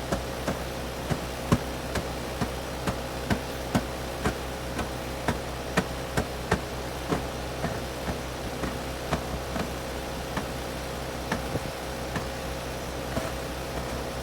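Gibson 3-ton air conditioner running as a heat pump: a steady hum with a constant tone. Sharp irregular ticks and clicks come through it, about two a second at first and fewer after the middle.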